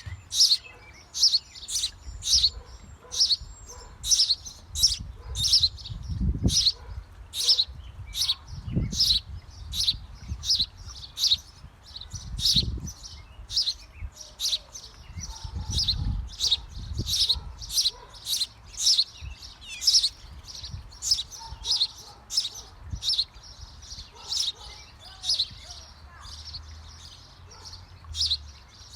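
Small birds chirping in a birdhouse: short high chirps repeated steadily, about two a second. There are occasional low thumps and rumbles, loudest around a quarter to halfway through.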